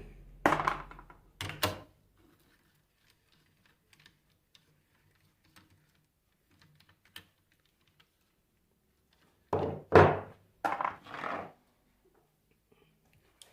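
Knocks and clicks of tools and metal parts being handled as an alternator is taken apart. Two sharp thunks come in the first two seconds, faint small ticks follow, and a cluster of heavier knocks comes about ten seconds in.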